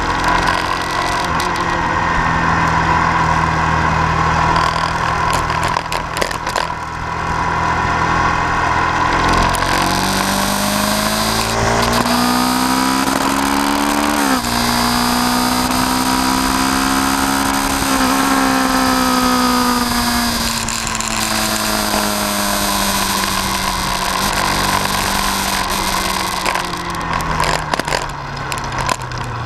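A vehicle engine running, then rising in pitch as it speeds up, dropping sharply about two thirds of the way through the first half, holding at a steady pitch and falling away near the end.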